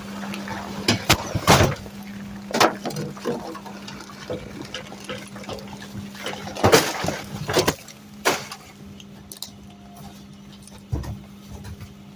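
Garbage truck running with a steady low hum, with a series of sharp knocks and short rushing noises at irregular intervals.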